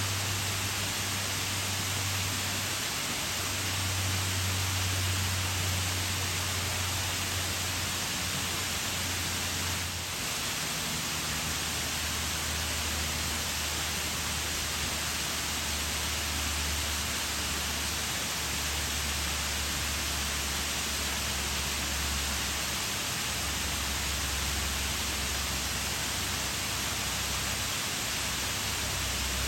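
Waterfall: the steady rush of water falling and splashing, an even hiss with a deep rumble underneath that wavers in pitch.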